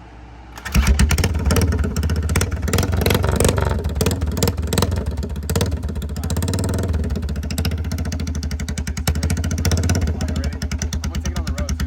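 Straight-piped ATV engine cold-starting: it fires up about half a second in, loud and uneven for the first few seconds, then settles into a steady, rapid-firing idle.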